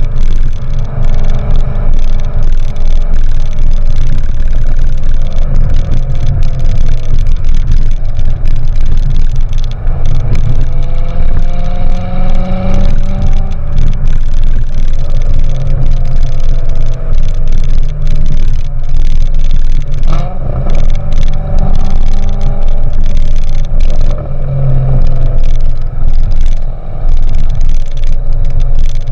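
The 6.2-litre LT1 V8 of a 2014 Corvette Stingray Z51, breathing through a GM Performance exhaust, pulling under load while driving. Its pitch rises and falls several times as it accelerates and eases off, over a heavy, steady low rumble.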